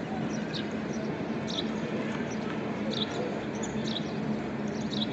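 Budgerigars chirping: short high chirps every second or so over a steady low hum.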